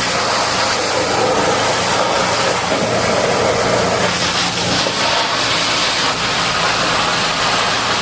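A heavy diesel engine running steadily at idle under a constant hiss of high-pressure water spray.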